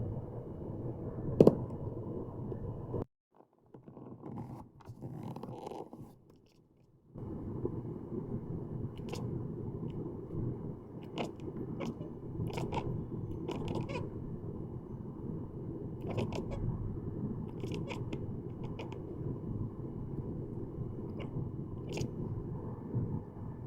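Munchkin cat chattering at small birds: scattered short, sharp clicking sounds over a steady low background hum. The loudest click comes about a second and a half in, and the hum drops out for a few seconds soon after.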